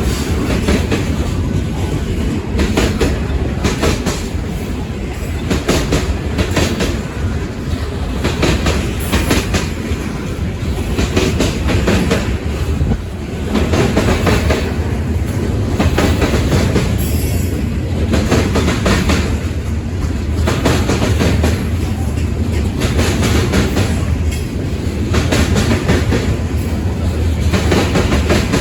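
Freight cars rolling past on the rails, wheels clacking over rail joints every second or two over a steady low rumble, with a brief high wheel squeal about two-thirds of the way through.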